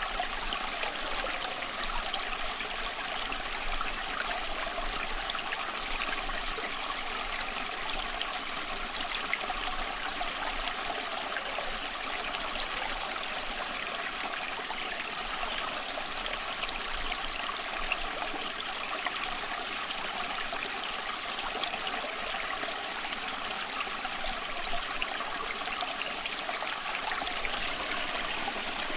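A small stream or brook running steadily over stones, an even rushing burble with fine splashes and trickles throughout.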